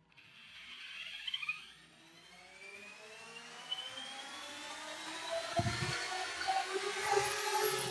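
Parrot Bebop quadcopter's four brushless motors spinning up, a whirring whine that rises in pitch and grows louder, with a couple of low thumps near the end.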